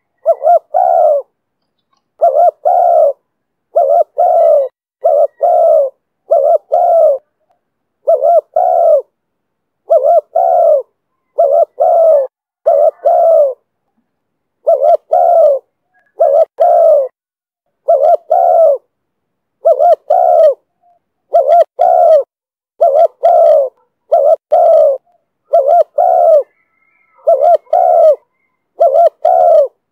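Spotted dove cooing over and over in the call Vietnamese keepers name 'thổ thúc bổi': low coos in pairs, each pair about a second long, repeating every second or two.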